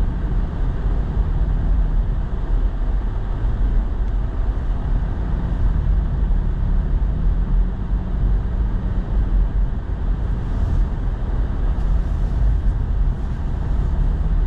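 Pickup truck driving on packed snow, heard from inside the cab: a steady low rumble of engine and tyre noise.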